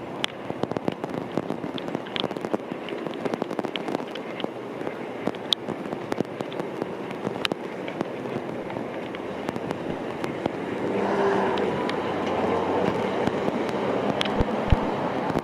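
Light rain falling, heard as a steady hiss with many sharp drop ticks close to the microphone. About two-thirds of the way through, a louder tyre hiss from traffic on the wet street swells in.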